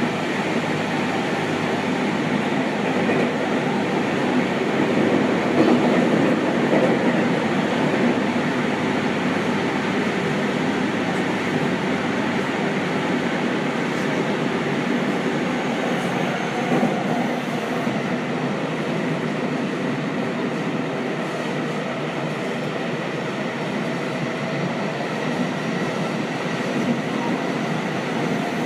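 Seibu 6000 series electric train running at speed through a subway tunnel, heard from inside the passenger car: a steady rumble of wheels on rail with a faint hum, a little louder about five seconds in.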